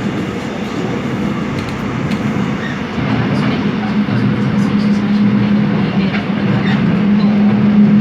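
Seoul Metro Line 7 subway train running between stations: steady rolling noise with a low hum that grows stronger about three seconds in, and scattered light clicks and rattles.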